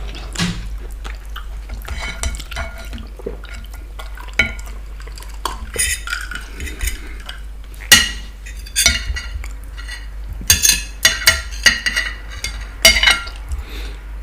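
Cutlery clinking and scraping against a plate in irregular strikes, some ringing briefly, as food is scooped up and eaten.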